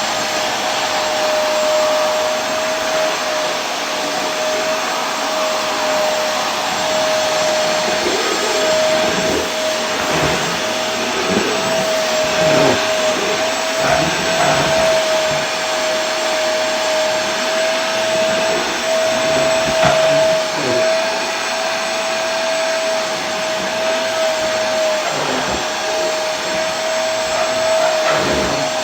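Vacuum cleaner running steadily: a continuous rush of air with a steady mid-pitched hum.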